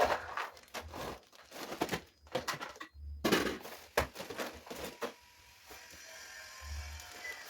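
Plastic bags rustling and crinkling in irregular bursts as they are handled, with a sharp knock about four seconds in. It goes quieter for the last two seconds.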